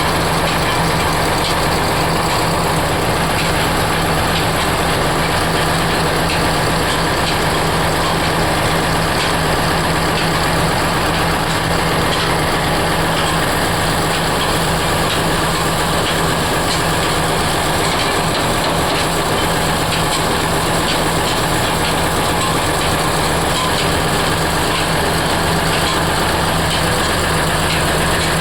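Heavy machinery running steadily, a constant loud drone with a low hum and faint irregular ticks.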